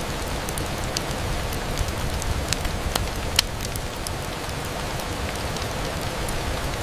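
Steady rain on a window, a continuous hiss, with scattered sharp ticks and pops through it; the loudest pop comes about three and a half seconds in.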